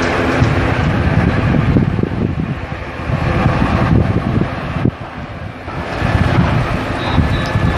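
Wind buffeting the microphone over the rumble of an aircraft's engines. A faint, steady high whine comes in near the end.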